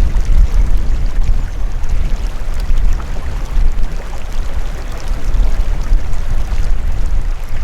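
Wind buffeting the microphone: a loud, gusting low rumble that rises and falls throughout.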